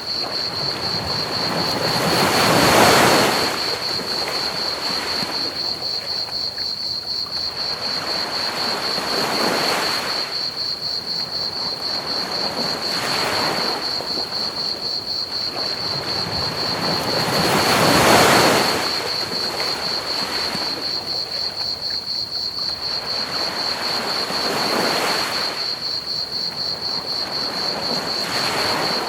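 Ocean waves washing onto a beach at night, swelling and falling back every several seconds, with the biggest surges about three seconds in and again past the middle. Under them runs a steady high trill of crickets and a constant hiss of pink noise.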